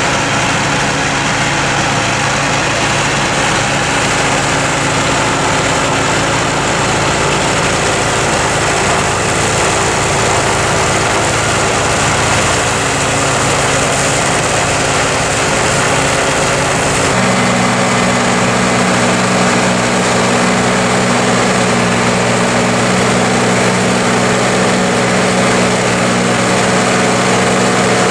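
Massey Ferguson tractor's diesel engine running steadily under load, driving a forage harvester cutting silage. About two-thirds of the way through the engine tone changes abruptly to a different steady note.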